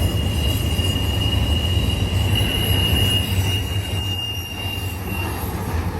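Intermodal freight train rolling past with a steady low rumble of wheels on rail, overlaid by a single high, steady wheel squeal that dies away about a second before the end.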